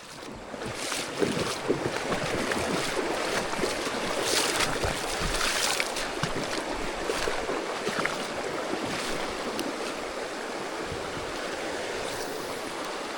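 Steady rush of flowing creek water, an even hiss with a few brief splashier moments in the first half.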